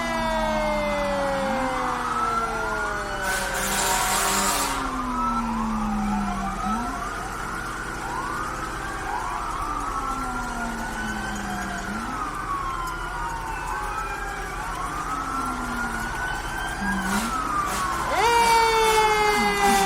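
Several emergency-vehicle sirens wailing at once, their pitches rising and falling out of step with each other. There is a short burst of hiss about three seconds in, and a louder sweep starts up near the end.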